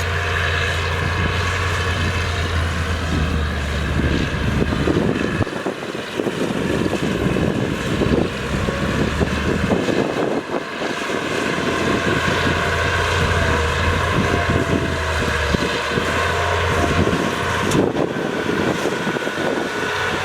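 Heavy diesel earthmoving machinery running, its low engine drone easing off twice and coming back, with wind buffeting the microphone.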